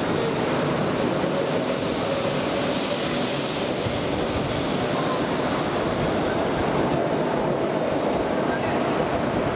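E1 series 'Max' double-decker Shinkansen pulling out of the station, its cars passing close by with a steady running noise of wheels and motors. A faint whine slowly rises in pitch as the train gathers speed.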